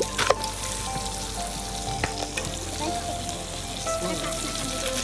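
Meat sizzling steadily as it cooks over a campfire, with a couple of sharp pops, one right at the start and one about two seconds in.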